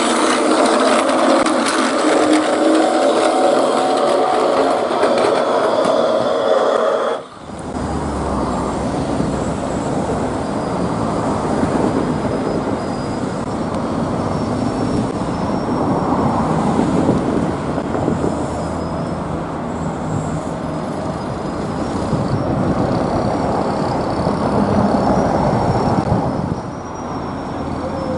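A Plarail toy train's small electric motor whirring steadily, then an abrupt cut about seven seconds in to a real Keihan electric train running on the rails, with a steady rumble of wheels and track.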